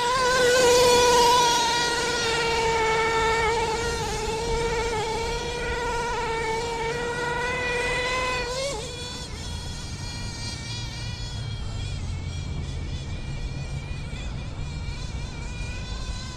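Redcat Earthquake nitro RC truck's small two-stroke glow engine running at high revs, a steady high-pitched buzzing whine. About nine seconds in the pitch briefly rises and the sound then carries on fainter. The engine is running well.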